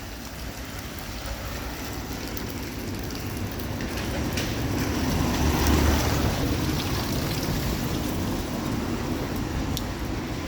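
Steady rain on a city street, with a vehicle passing on the wet road: its tyre hiss and engine rumble build to a peak about halfway through, then fade.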